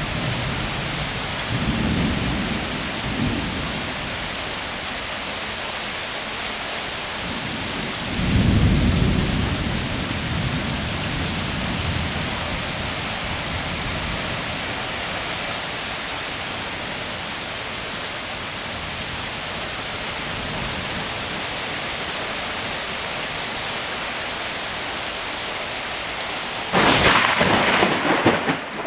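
Steady heavy rain hissing through a thunderstorm, with thunder rumbling low about two seconds in and again, louder, about eight seconds in. A sudden loud burst comes near the end.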